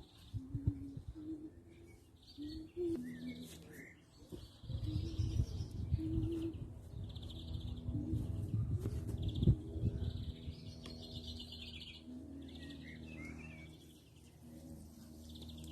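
Small birds chirping in short repeated calls, with lower cooing calls under them. A low rumble runs through the middle of the stretch.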